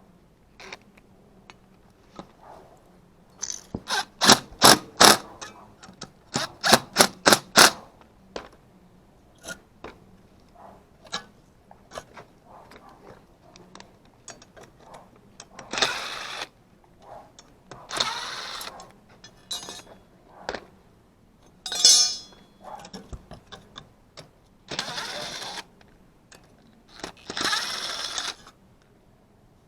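Hand tools and metal parts being worked on an HVAC unit: scattered clicks, a quick run of about a dozen sharp strikes or clacks, then several short rasping bursts of about a second each.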